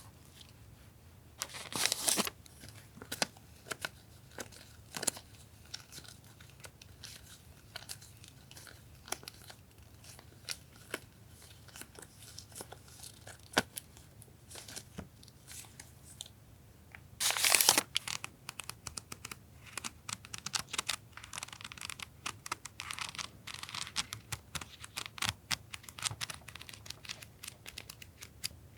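Close-up handling of stationery items and their paper and plastic packaging: rustling and crinkling with many small taps and clicks, and two louder brief rips about two seconds in and just past the middle. The crinkling grows denser near the end.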